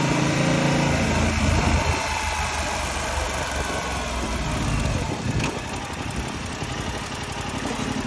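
Yamaha R7's 689 cc parallel-twin engine running on the move, with wind noise on the microphone. The engine note drops back a little about five seconds in.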